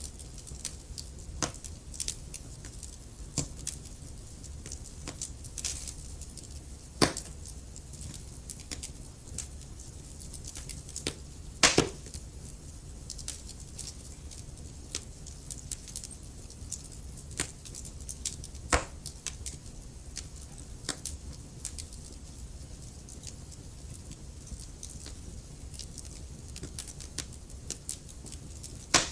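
Wood fire burning, with irregular crackles and sharp pops from the logs over a low steady rumble; the loudest pops come about 7, 12 and 19 seconds in and again at the very end.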